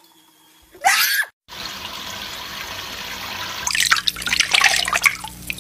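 A parrot's single loud, pitch-bending screech about a second in, then steady running water like a tap, with a jumble of sharp squawks and splashes over it in the second half.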